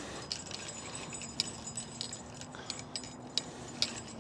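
Irregular light metallic clicks and jingles, a few a second, from sturgeon fishing rod and reel gear while a small fish is being fought. A faint steady hum lies under them.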